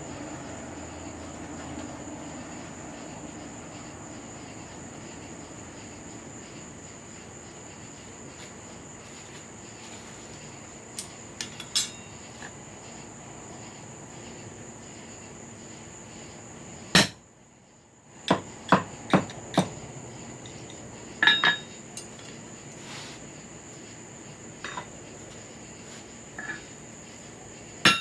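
Scattered metallic hammer strikes and clinks on steel, sparse at first, then a sharp loud strike about two-thirds of the way through and several quick runs of strikes after it. A steady hiss and a thin high steady tone sit underneath.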